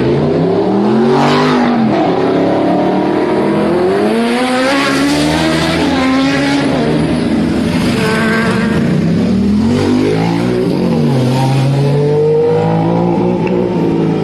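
Sports car engines revving and accelerating, their pitch rising and falling several times.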